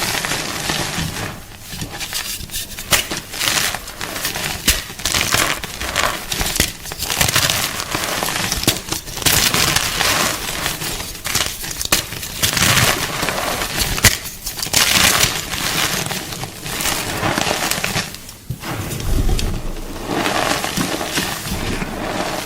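Gym chalk being crunched: a run of dense, crackly crunches in irregular clusters with short pauses between them.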